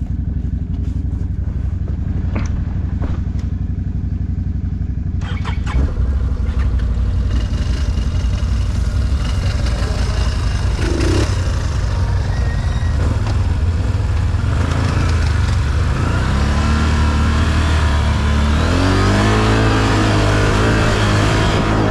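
ATV engine running steadily with a few knocks and rattles, then accelerating near the end, its pitch climbing in steps as it revs up and pulls away.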